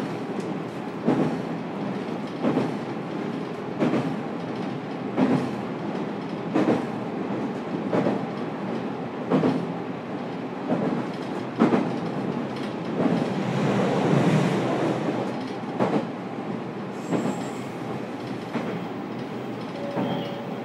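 Running sound inside a JR Kyushu 813 series electric multiple unit motor car: steady wheel-on-rail rumble with a rail-joint clack about every 1.3 seconds as the train cruises at an even speed. The rumble swells briefly a little past the middle.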